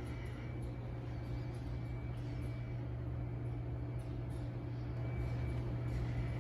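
A vehicle engine idling with a steady low drone that grows slightly louder toward the end.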